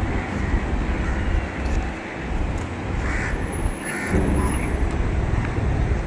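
Steady low rumble, with two short bird calls about a second apart midway through.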